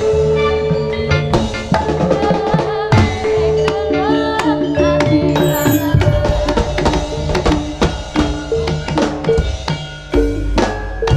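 Jaranan dance music: hand drums beat a busy rhythm under held melodic notes from the accompanying instruments.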